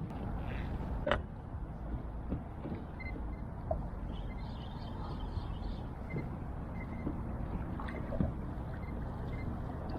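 Steady noise of water moving around a kayak, with a sharp knock about a second in and a few faint ticks.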